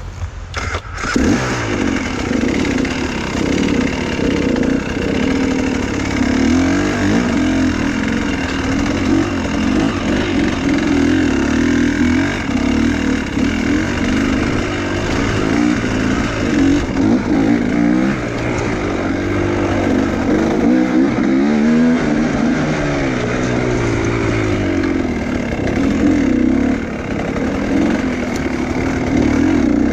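Enduro motorcycle engine revving up and down repeatedly as the bike is ridden, coming in loud about a second in.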